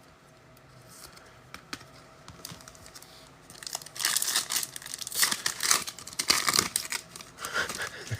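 Crinkling and tearing of a foil trading-card pack wrapper being ripped open and handled, in irregular bursts from about four seconds in.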